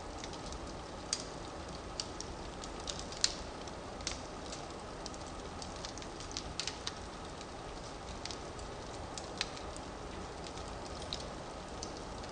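Firewood burning in a fireplace: a steady low rush of flame with irregular sharp crackles and pops scattered throughout, the loudest pop about three seconds in.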